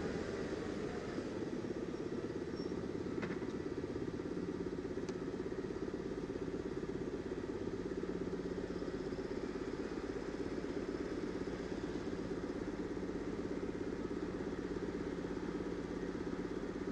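BMW R850R's boxer twin engine running at low speed, settling into a steady idle about halfway through as the bike comes to a stop.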